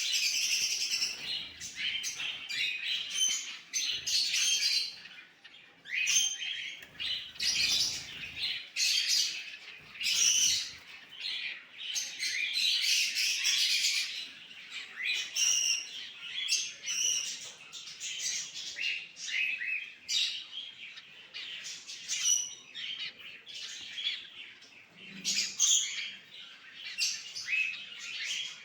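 Cockatiels chirping and calling over and over: many short, high calls, some sliding in pitch, with brief pauses between runs.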